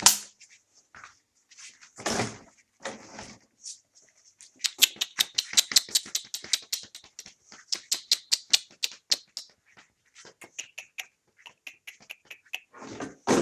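Puppies eating meat: a fast run of wet smacking and clicking chews, about eight a second, that thins out later on. There are two louder, noisier sounds, about two seconds in and near the end.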